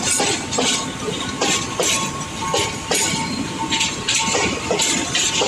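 Fuel tank wagons of a freight train rolling past, their wheels knocking over rail joints in irregular pairs, with a thin steady whine running underneath.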